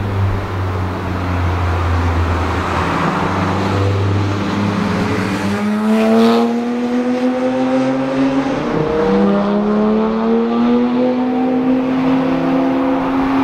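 Audi R8 GT's 5.2-litre V10 engine, first a steady low rumble at low revs, then accelerating away with the pitch rising through the revs, one upshift about nine seconds in before it climbs again.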